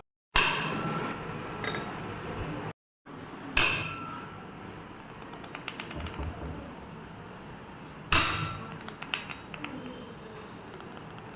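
A 256 Hz tuning fork struck three times, each a sharp knock with a brief ring, followed near the end by a run of small light clinks.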